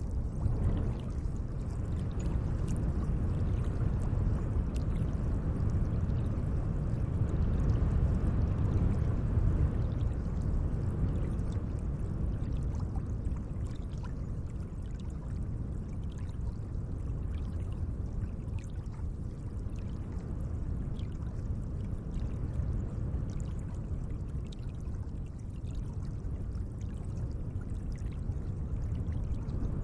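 Gentle moving lake water: a steady low wash with faint small splashes scattered through it, swelling slightly a few seconds in and then easing.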